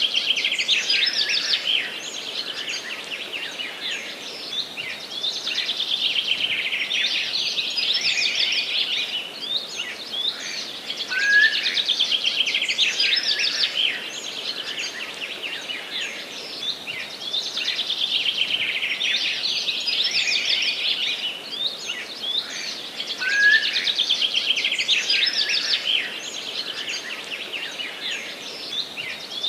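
A songbird singing the same fast, trilling phrase again and again, each phrase lasting three to four seconds with a short pause between, over a faint steady background hiss.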